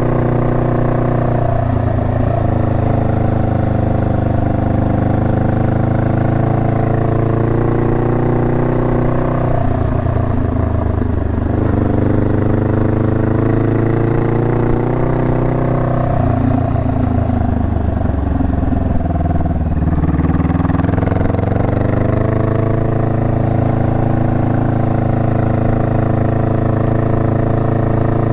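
Honda Rebel 500's parallel-twin engine running under way. Its pitch drops and rises several times as the road speed changes, with a few brief rough patches.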